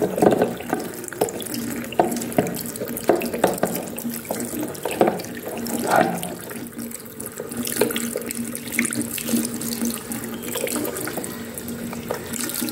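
Tap water running and splashing as the washing machine's inlet sieve is rinsed clean of sand and dirt, with irregular splashes and light knocks throughout.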